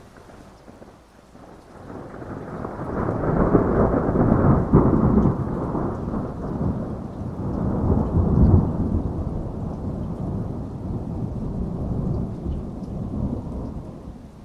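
Heavy rain falling steadily under a long rolling thunder rumble. The rumble swells after a couple of seconds, peaks twice and dies away near the end.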